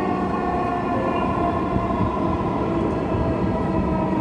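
Electric metro train running between stations, heard from inside the carriage: a steady rumble under a whine of several held tones from the drive.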